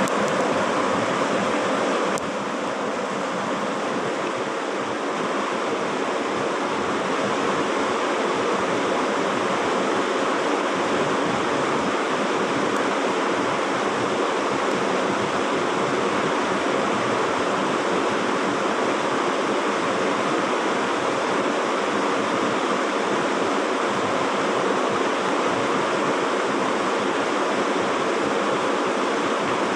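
Steady rush of flowing stream water, with a slight drop in level about two seconds in.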